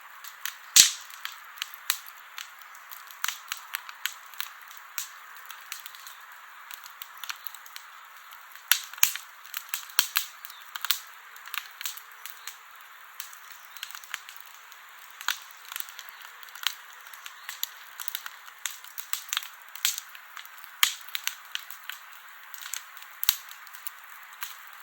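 Campfire burning: a steady hiss with irregular sharp crackles and pops throughout, one loud pop about a second in and a cluster around ten seconds in.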